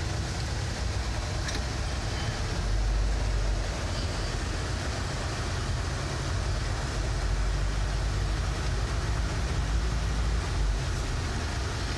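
Steady road noise inside a moving car's cabin: a constant low rumble of engine and tyres under a soft hiss.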